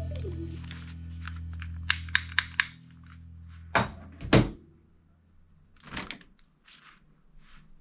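Clicks and knocks of a plastic toy pistol being handled, with two loud thumps a little before halfway and a few fainter clicks later; a low held music note fades out over the first few seconds.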